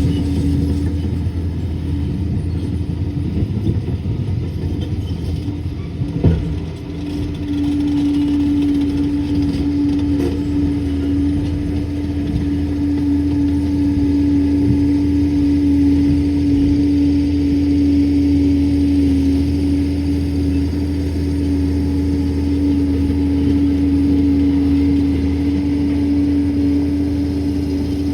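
Liebherr 746 crawler dozer's diesel engine running steadily at work, with a steady low hum that strengthens about seven seconds in and a single sharp knock just before that.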